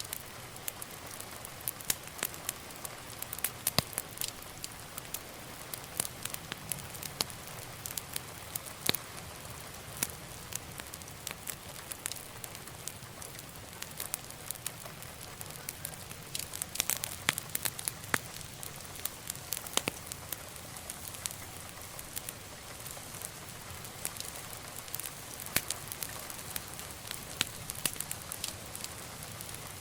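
Wood fire burning in a fireplace: irregular sharp crackles and pops over a soft steady hiss and low rumble of the flames.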